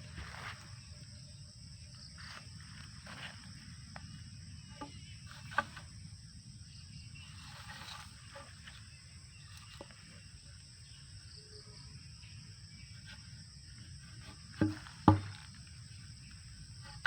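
Outdoor ambience: a steady high-pitched whine and a low rumble, with scattered light clicks and two louder knocks in quick succession near the end.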